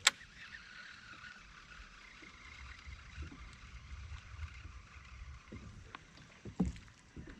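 Kayak sitting on the water with a steady low rumble of water and wind and a faint hiss, a sharp click right at the start and a duller knock about six and a half seconds in.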